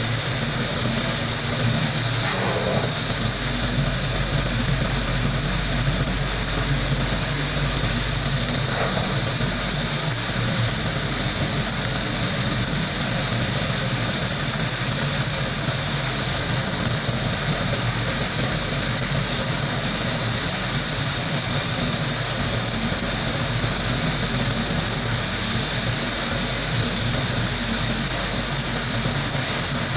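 Compressed-air tool blowing with a steady, unbroken hiss, with a low rumble underneath.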